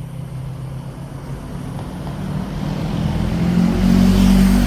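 A motor vehicle's engine hum and tyre noise on the street, growing louder as it passes close by and peaking about four seconds in.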